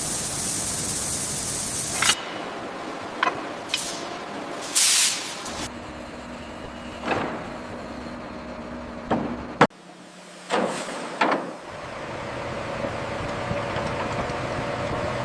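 Machinery sounds from a 1955 Caterpillar D7 dozer in quick cuts: clanks, knocks and short bursts of hiss. In the last few seconds an engine runs steadily.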